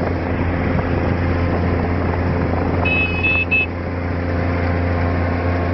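Mule utility vehicle's engine running steadily under load while towing a quad bike uphill. About three seconds in there is a brief high-pitched chirp.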